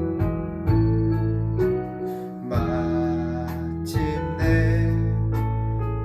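Worship-song accompaniment between sung lines: an acoustic guitar strummed over held chords with a steady low bass. A singing voice comes back in near the end.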